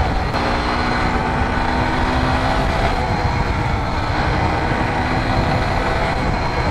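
Polaris ATV's air-cooled engine running steadily while the quad is ridden along the road, its engine hum heard through dense rushing noise. The engine tone fades midway and comes back near the end.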